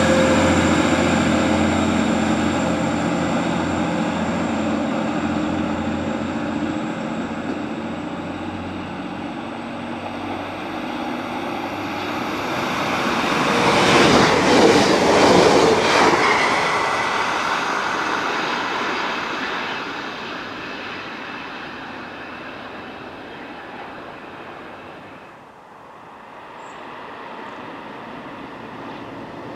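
A TransPennine Express Class 185 diesel multiple unit's engine running as it moves off, fading over about ten seconds. A Northern Class 158 diesel unit then passes close by, its engine and wheel noise loudest about fourteen to sixteen seconds in. After a sudden drop near the end, a distant train is heard approaching.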